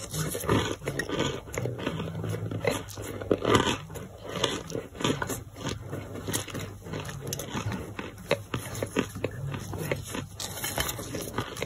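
Close-up crunching and chewing of boiled brick, a chalky white edible clay, heard as many irregular crisp crunches and crackles.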